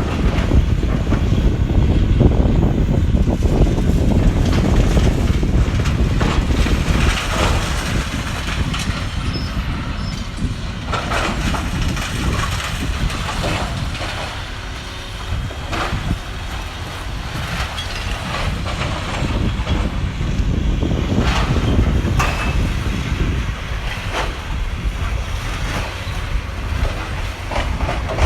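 Caterpillar 320D excavator's diesel engine running with a steady low rumble, with sharp knocks and crunches of demolition work every few seconds.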